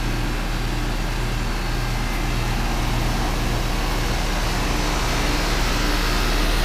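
Rheem central air conditioner's outdoor condensing unit, compressor and fan, running with a steady low hum just after switching on, growing slightly louder as it comes up to speed.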